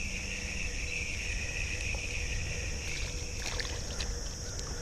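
Creek-side ambience while a hooked bluegill is brought in: a steady low rumble of water, with insects droning at a constant high pitch throughout. A few faint clicks come about three to four and a half seconds in.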